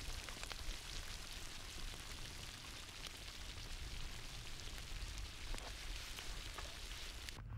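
Meatballs frying in hot oil: a steady dense sizzle full of small crackles and pops.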